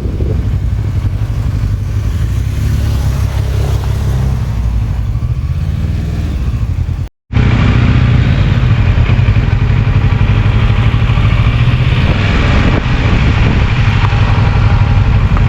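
Kawasaki Versys 650's parallel-twin engine running steadily while riding. The sound drops out for a moment about seven seconds in and comes back a little louder.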